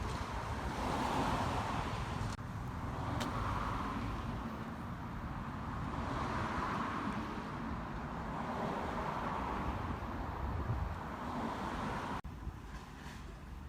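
Road traffic noise: vehicles passing, each swelling and fading every few seconds, with abrupt breaks about two and twelve seconds in.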